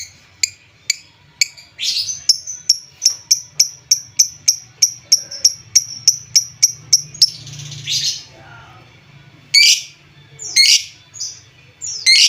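Lovebird calling: a fast run of sharp, high chirps, about three a second, for some five seconds, then a few longer, harsher calls.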